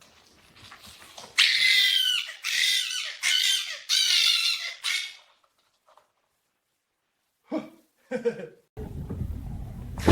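A dog whining in four loud, high-pitched cries whose pitch bends, each under a second long. Near the end come two short, lower sounds, followed by a steady rumble.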